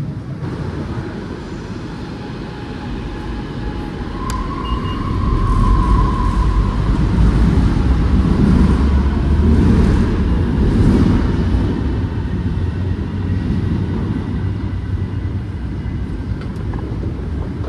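Train running, a heavy low rumble that swells about five seconds in and eases after about eleven seconds, with a brief high squeal near the start of the swell.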